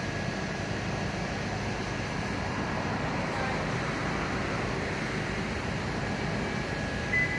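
Steady traffic and engine noise with a low rumble, and a short high beep near the end.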